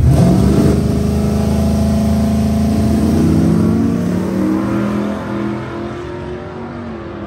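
Drag-racing truck engine launching hard down the strip, its pitch climbing and then stepping up through the gears as it pulls away and fades.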